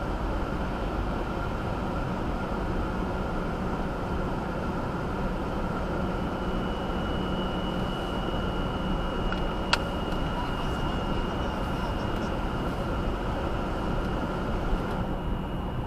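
2018 Subaru Outback 2.5i with a steady high-pitched whine over the car's running noise, and a second, higher whine joining about six seconds in. There is a single click near the middle. The whine comes at cold idle and under light throttle; the owner suspects the CVT transmission or a faulty charging system.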